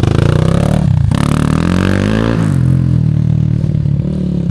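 Enduro motorcycle engine revving under load. It dips just before a second in, rises in pitch over the next second or so, then holds steady.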